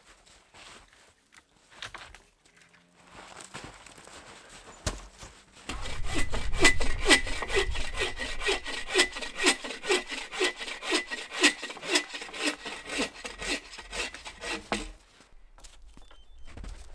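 Hand saw cutting through wood, sawing in quick, even back-and-forth strokes for about nine seconds, starting around six seconds in, with quieter handling sounds before it.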